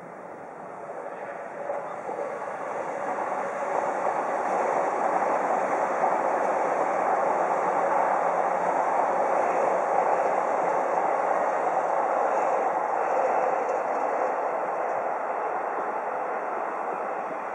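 A JR Keihin-Tōhoku Line E233-series electric commuter train running past on the tracks below, a steady noise of wheels on rail. It builds over the first few seconds, holds through the middle as the train passes closest, and fades toward the end.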